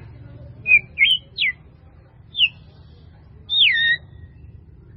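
A bird calling: a series of short whistled notes, mostly falling in pitch, the longest near the end sliding from high to low.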